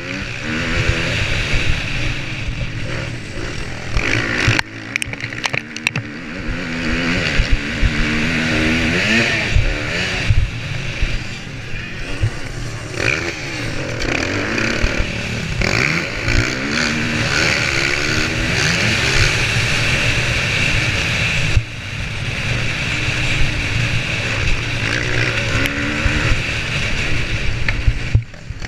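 Motocross bike engine revving up and falling back again and again as the rider accelerates and shifts gear around the track. There are brief lulls where the throttle is shut off.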